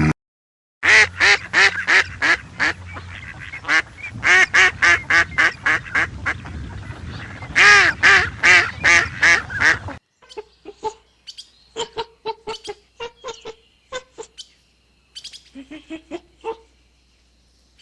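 Waterfowl calling in a rapid, loud run of repeated nasal calls for about nine seconds. After a break, a sparser series of shorter calls follows.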